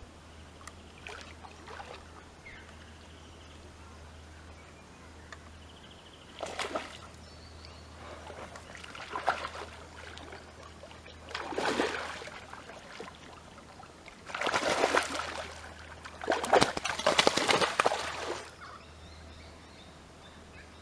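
Water splashing and sloshing in five short bursts, each a second or two long, the last two the loudest and longest.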